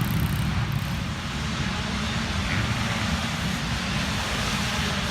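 Small dirt bike engines running on the track, a steady droning hum with no single bike standing out.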